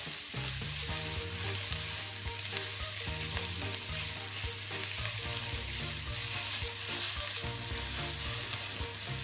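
Garlic cloves sizzling in hot cooking oil in a pan while being stirred, a steady sizzle with occasional light clicks. Soft background music plays underneath.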